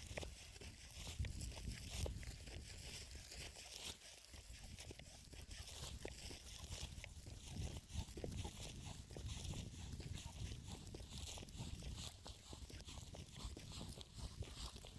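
Crunching, rustling footsteps with many small scattered clicks, over a steady low rumble.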